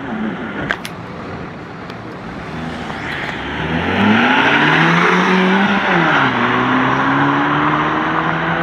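A car engine accelerating, getting louder and rising in pitch over a couple of seconds. About six seconds in the pitch drops sharply, then climbs again steadily.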